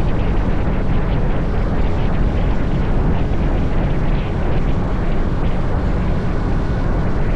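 Steady rush of wind on the microphone together with a Honda CT125's small single-cylinder engine running, heard from a motorbike under way.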